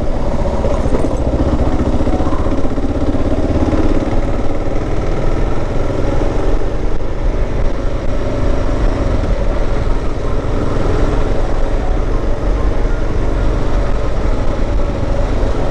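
Motorcycle engine running steadily as the bike is ridden, under a heavy low rumble of wind on the microphone.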